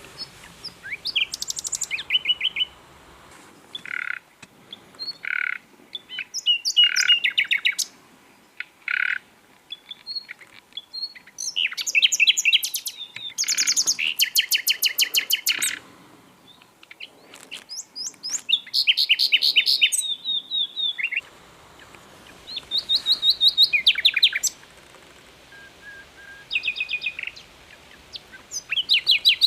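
Common nightingale singing a series of separate phrases, each a second or two long with short pauses between them. Most phrases are rapid runs of repeated notes and trills. Between about four and nine seconds in, several single pure whistled notes come about a second apart.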